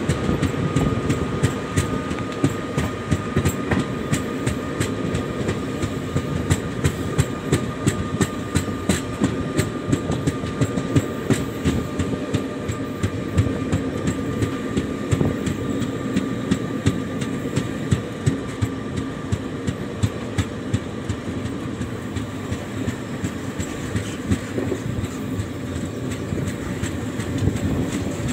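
Passenger express train running at speed, heard from on board: a steady rumble with wheels knocking over rail joints about once or twice a second. A faint steady high whine fades out about two-thirds of the way through.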